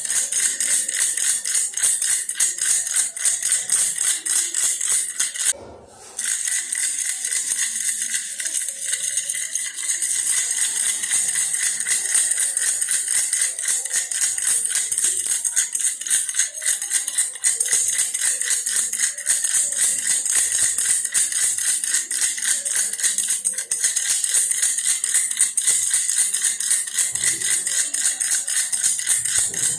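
A baby's toy bear rattle shaken fast and continuously, a dense jingly rattling that stops for about half a second around six seconds in, then carries on.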